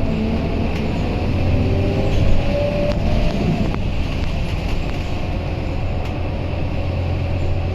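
Scania K230UB Euro V single-deck city bus under way: a steady low engine drone with whining tones that slide in pitch, falling at the start and then rising over the next few seconds. A brief knock comes a little over two seconds in.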